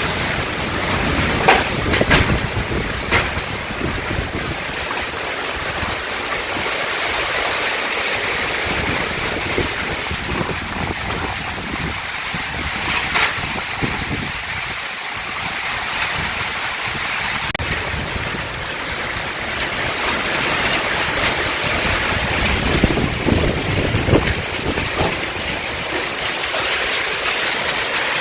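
Heavy rain pouring down in a summer thunderstorm, with gusts of wind and a few sharp knocks, mostly in the first few seconds.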